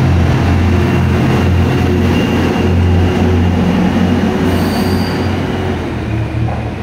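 The diesel railcar of the Echigo Tokimeki Resort Setsugekka runs past close by, its engine giving a steady low drone under rumbling wheel and rail noise. The sound eases off near the end as the train draws away.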